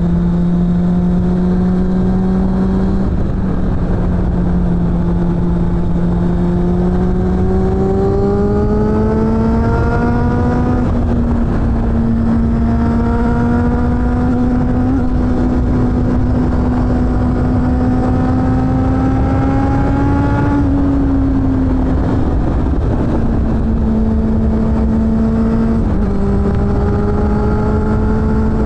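Suzuki GSF600 Bandit's inline-four engine through a BOS aftermarket exhaust, ridden under load. The note climbs steadily for long stretches, drops about two-thirds of the way in, then settles with a couple of small steps in pitch. A constant rush of wind and road noise runs underneath.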